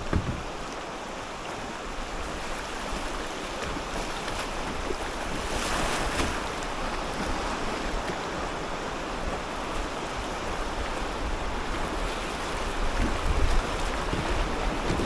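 River water rushing and splashing around a kayak, a steady wash that swells briefly about six seconds in. Wind buffets the microphone with low rumbles near the end.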